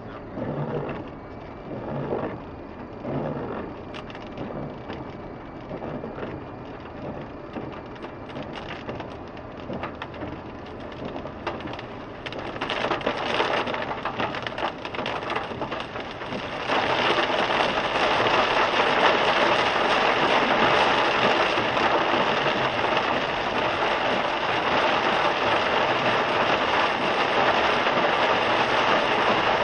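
Rain drumming on a car's windshield and roof, heard inside the car. It starts as scattered drops, builds about twelve seconds in, then suddenly turns into a dense, steady heavy downpour a little past halfway.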